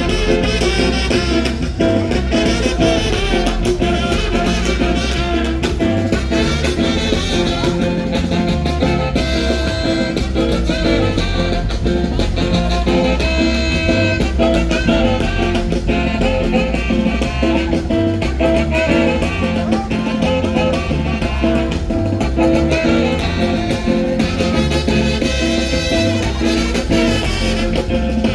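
Loud, lively Latin band music with brass playing held notes over a steady, driving low beat.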